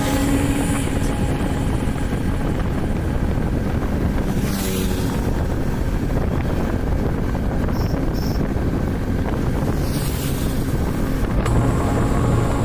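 Motorcycle running along the road, with wind buffeting the microphone. A short hiss comes twice, and steady low music notes return near the end.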